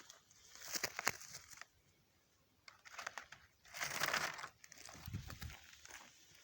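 Rustling and crunching noises in short irregular bursts, with a second of near silence between them; the loudest burst is about four seconds in.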